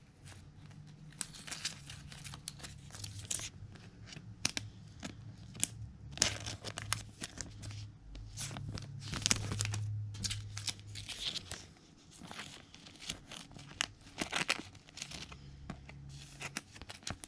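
Foil trading card pack wrappers being torn open and crinkled by hand, in a run of irregular sharp crackles.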